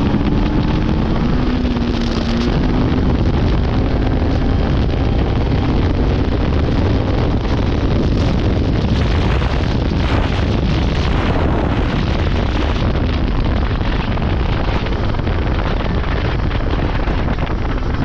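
Polaris 600 two-stroke snowmobile engine running under way, mostly buried under heavy wind noise on the microphone.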